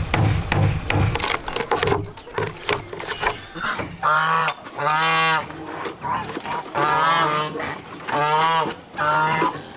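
A farm animal calling loudly again and again: about five pitched calls of roughly half a second each, starting about four seconds in. Before them a steady beat of music fades out.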